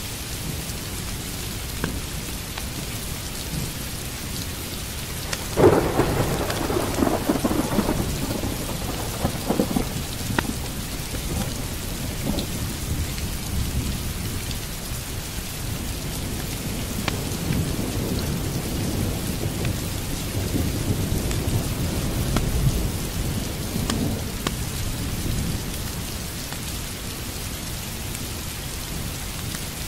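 Steady rain with a sudden clap of thunder about five seconds in that rolls on for several seconds. A second, longer low roll of thunder comes in the second half.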